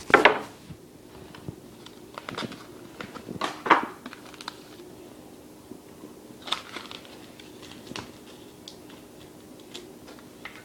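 Trading card packaging of a Yu-Gi-Oh Cosmo Blazer Special Edition being handled and opened by hand: scattered short crinkles and rustles, loudest at the very start and again around four seconds in.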